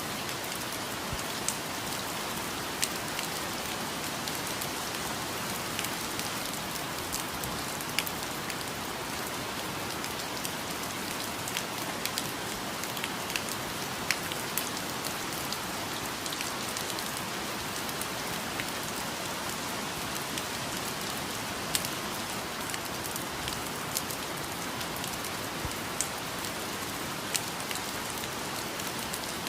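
Steady rain, with scattered sharper drop hits standing out here and there.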